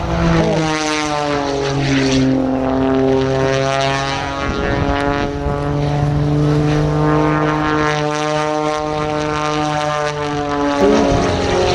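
Extra 300S aerobatic plane's piston engine and propeller droning as it circles past, the pitch sagging and rising slowly through the pass.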